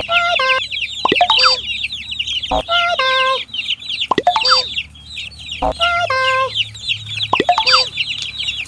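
A crowd of chicks peeping continuously in high, rapid chirps. A louder call with a sliding start and a held middle repeats about every second and a half.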